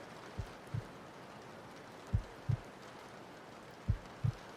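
Slow heartbeat: three paired deep thumps (lub-dub), the pairs about a second and three-quarters apart. Under it, a steady hiss of rain.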